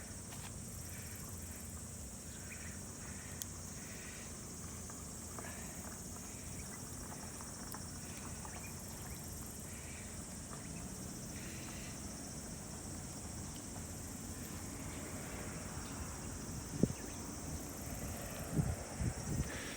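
Steady high-pitched chirring of insects, with a few light knocks near the end.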